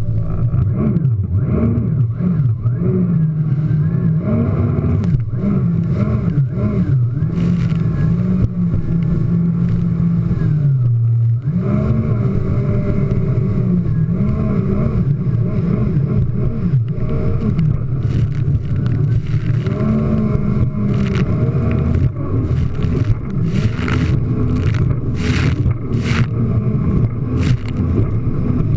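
Jet ski engine running at speed, its pitch rising and falling with the throttle and dropping briefly about eleven seconds in. Near the end, repeated short rushes of noise come as it crosses waves.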